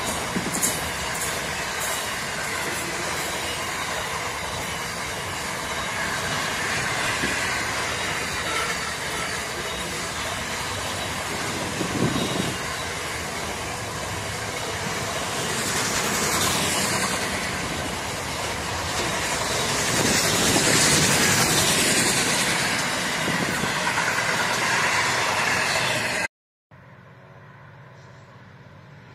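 Container wagons of a long intermodal freight train rolling past close by: a steady rumble and clatter of wheels on the rails with a few sharp clicks, swelling a little about twenty seconds in. Just before the end it cuts off suddenly to a much quieter steady background.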